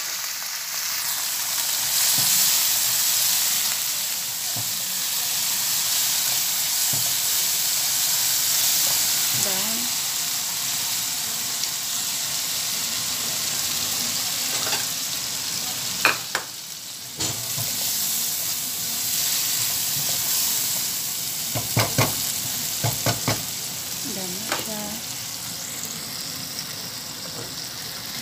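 Garlic shrimp sizzling in hot oil in a nonstick wok while being stirred with a silicone spatula, a steady frying hiss. A few sharp knocks against the pan break in about halfway through and again a little later.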